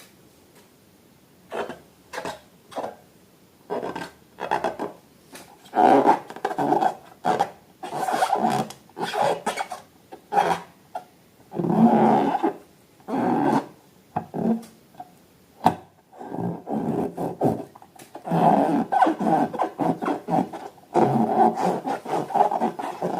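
Hands rubbing and squeezing rubber balloons and slime, in irregular rubbing bursts that start about a second and a half in and grow longer and closer together.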